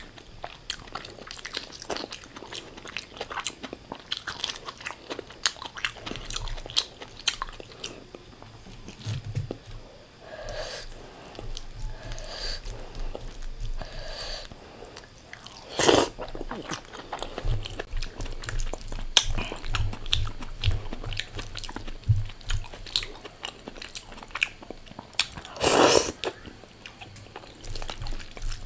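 Close-miked eating: a person chewing food with wet mouth clicks and crunchy bites, two loud crunches about 16 and 26 seconds in.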